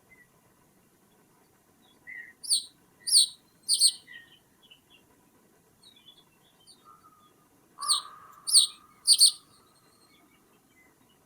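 A bird calling: two bursts of three sharp, short, downward-sliding notes each, a few seconds apart, over faint background quiet.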